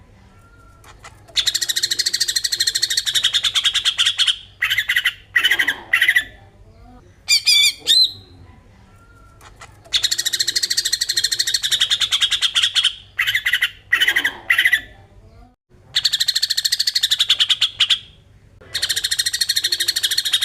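Cucak ijo (green leafbird) giving its besetan: long, fast, rasping chatter runs of two to three seconds, broken by short sharp bursts. The same sequence comes round again about every nine seconds, as from a looped recording.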